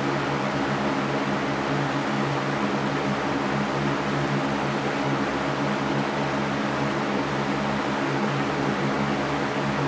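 Electric fan running steadily: an even rush of air with a low motor hum beneath it.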